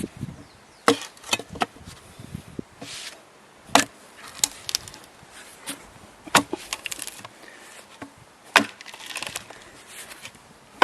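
Metal chisel-type hive tool prying and scraping at wooden beehive frames and boxes: a run of about seven sharp cracks and knocks at uneven spacing, with softer scraping between them.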